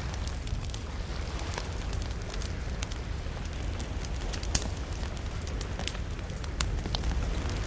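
Wood campfire crackling, with irregular sharp pops; the loudest snaps about halfway through. A steady low rumble runs underneath.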